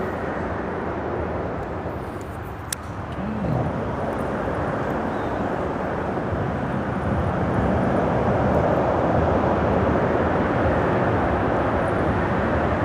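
Freeway traffic on the bridge overhead, a steady rumbling wash of noise that swells louder about seven seconds in. A single sharp click sounds near three seconds in.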